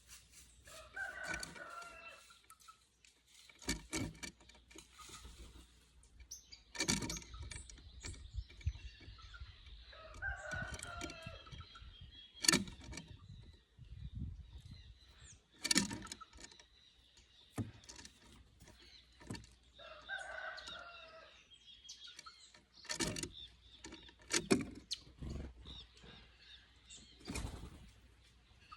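A bird gives three long, drawn-out calls about ten seconds apart, with sharp knocks and taps in between.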